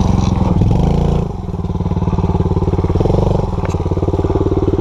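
Small dirt bike engine running, revving up and easing off: the revs climb in the first second, drop back, then rise again about three seconds in.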